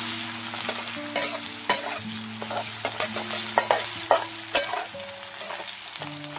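Sliced onions sizzling as they fry in oil in a metal kadhai, with a steel spatula scraping and clicking against the pan at irregular moments as they are stirred.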